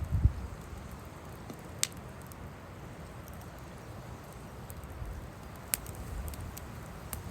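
Wood fire burning with a few sharp pops from the firewood, over a steady low hiss, while gusts of wind rumble on the microphone.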